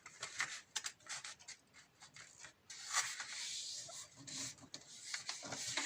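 A sheet of paper being folded by hand, the crease pressed flat with the fingers: dry rustles and small crackles, with a longer rubbing swish about three seconds in.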